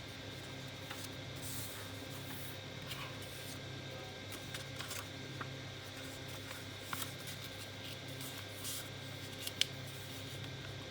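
Origami paper being folded and creased by hand: faint, scattered rustles and light ticks, with one sharper tick near the end, over a steady low electrical hum.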